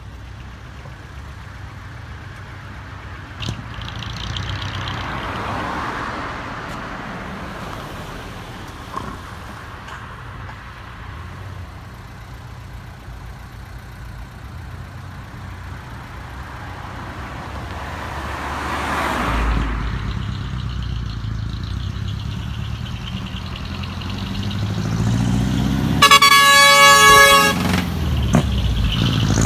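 Dekotora truck with a double-muffler exhaust: a steady low engine rumble, with two slow rising-and-falling swells of noise. About 26 seconds in, the truck's trumpet air horn sounds one loud blast of about a second and a half, and the engine is louder toward the end.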